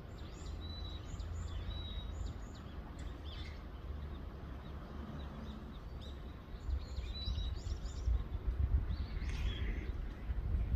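Small birds chirping with short, high calls and brief whistled notes, repeated on and off, over a steady low outdoor rumble that grows louder in the second half.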